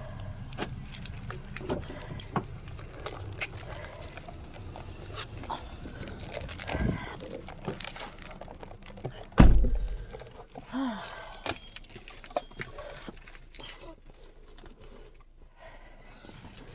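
Footsteps on a trail and rustling handling of a hand-held phone, with scattered clicks and one loud thump about nine and a half seconds in.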